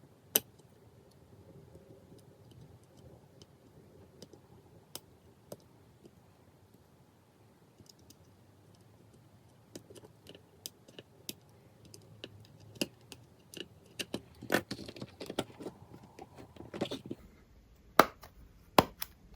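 Small clicks and taps of tools and phone parts being handled on a work surface. They are sparse at first and come thicker in the second half, with a few sharp, louder clicks near the end.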